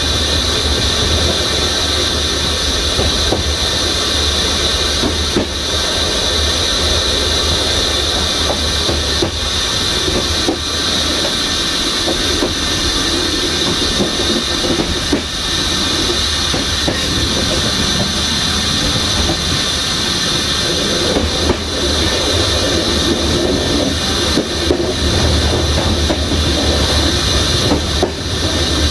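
Passenger train coach running along the track: steady rolling noise of wheels on rails, with a high hiss and a low rumble. A few sharp, irregular clicks of the wheels passing over rail joints.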